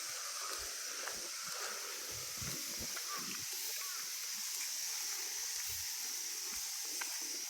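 A steady high-pitched insect chorus, with irregular soft thumps and rustling from someone moving through undergrowth.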